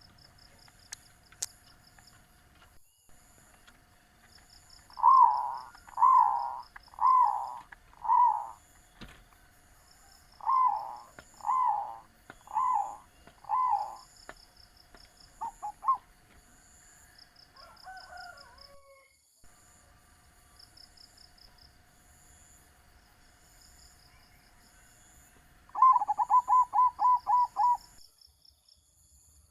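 Zebra dove (perkutut) cooing: two runs of four drawn-out coos about a second apart, a couple of short notes, then a quick run of about eight short coos near the end. High, pulsing insect chirps repeat throughout.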